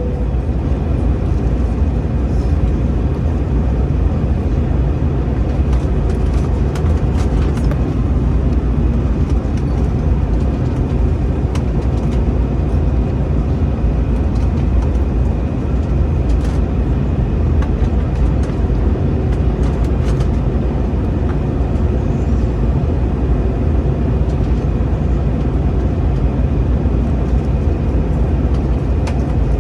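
Steady cabin rumble of an Airbus A321-211 heard from inside the passenger cabin, from its CFM56 engines and airflow, heaviest in the low end and even throughout.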